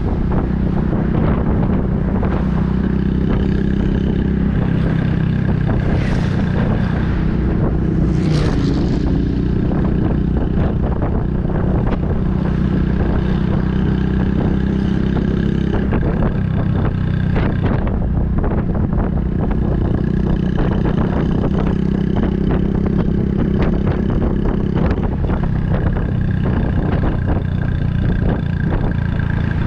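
Honda Super Cub 110's air-cooled single-cylinder engine running through an aftermarket Kitaco mini Cabton muffler while riding, its note rising and dipping a few times with the throttle. Wind rushes over the microphone.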